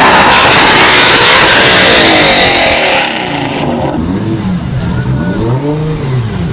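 Car engine revving hard as it drives past, very loud for the first three seconds. Then it blips up and down in a few quick revs.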